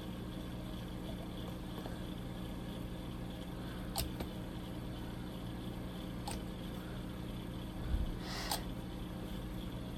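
Steady low electrical hum, with three small clicks spread through it from plastic model parts and tools being handled during gluing.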